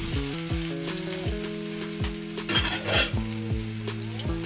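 Pounded shallot-and-garlic paste sizzling in hot oil in a wok, with a brief louder crackle about two and a half seconds in. Steady low tones with repeated falling sweeps run underneath.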